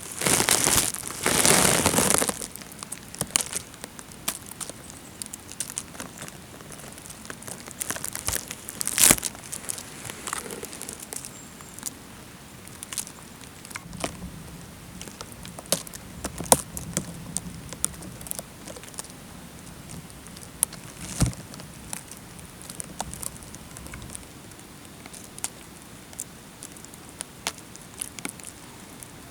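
Footsteps crunching through dry leaf litter and twigs: irregular crackles and rustles with scattered sharp snaps, the loudest a rustle in the first two seconds and a snap about nine seconds in.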